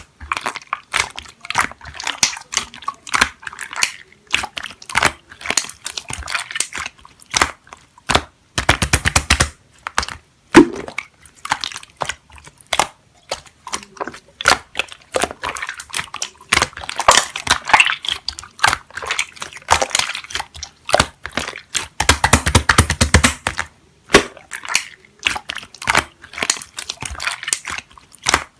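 Slime being squeezed, poked and folded by hand, making a steady run of sharp clicks and air-bubble pops, with bursts of rapid crackling about nine seconds in and again around twenty-two seconds.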